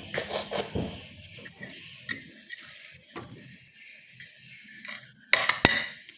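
Scattered clicks, knocks and rubbing from things being handled, with a louder sharp knock about five and a half seconds in.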